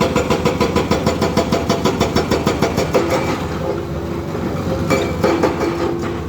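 Heavy-machine diesel engine running with a rapid regular beat, which smooths into a steadier drone about three seconds in.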